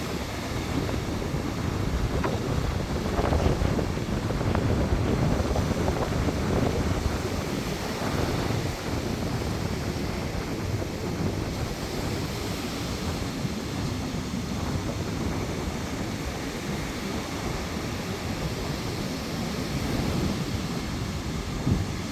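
Sea surf breaking on the shore in a storm, with strong wind buffeting the microphone; the noise swells louder for a few seconds early on and then eases.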